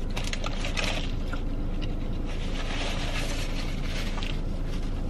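Close-up chewing of a bite of ghost pepper Whopper with crispy jalapeños, a few soft crunches, over a steady hiss and hum inside the car.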